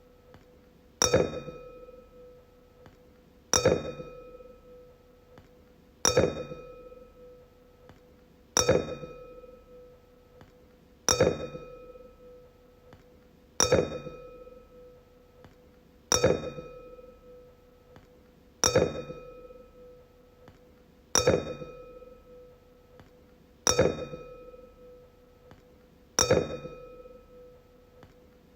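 Wine glass struck over and over, about once every two and a half seconds, each tap ringing with a clear tone that dies away before the next. Eleven taps in all.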